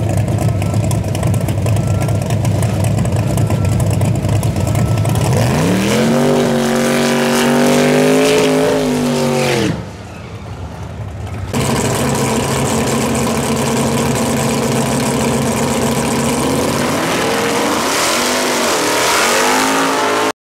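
Drag-racing cars' engines. A pro street car runs loudly at idle, then revs up and holds high for a smoky burnout. After a short quieter break, more loud engine noise follows, and near the end a second car, a Camaro, revs up and down while spinning its rear tyres.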